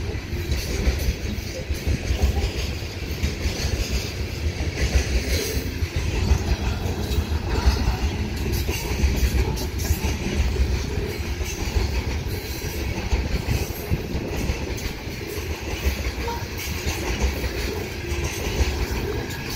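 Coal cars of a long freight train rolling past close by: a steady heavy rumble with wheels clacking and knocking on the rails.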